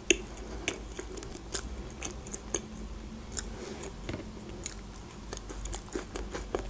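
Close-miked chewing of a mouthful of McChicken sandwich: soft, irregular, moist mouth clicks and crackles.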